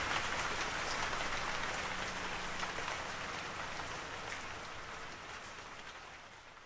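Steady rain falling, a dense patter of drops, fading out gradually to near silence.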